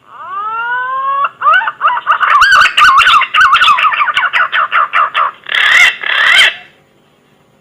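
Pink-necked green pigeon (punai gading) calling: a rising whistled note, then a fast warbling run of modulated whistles, ending in two harsher, raspy notes.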